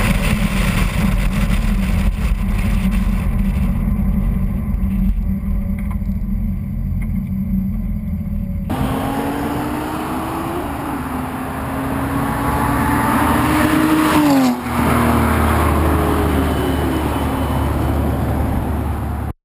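BMW 135i's turbocharged straight-six running through a prototype aftermarket exhaust with downpipes and no catalytic converter. A low steady drone gives way to the car accelerating with rising pitch, a brief break about fourteen and a half seconds in, then falling pitch as it goes by.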